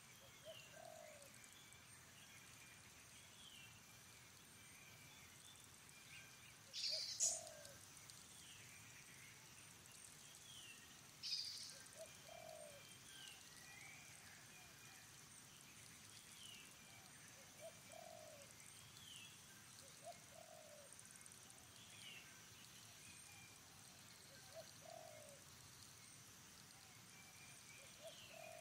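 Faint outdoor bird sounds: a dove cooing in short calls every few seconds, with small birds chirping. Two brief, louder high-pitched squeaks come about seven and eleven seconds in.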